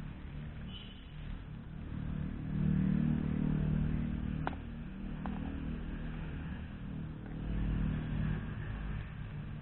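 A car engine running nearby with a steady low hum that swells about three seconds in and again near the end, with a single sharp click midway.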